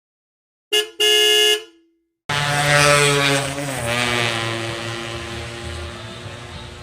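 Horn blasts: a short honk of about half a second about a second in, then, after a pause, a longer loud honk that dips in pitch and slowly fades.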